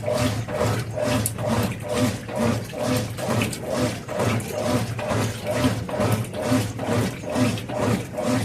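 Brastemp Mondial washing machine agitating a double-bed bedspread in the rinse cycle: water sloshing in an even back-and-forth rhythm of about two to three strokes a second over a steady motor hum.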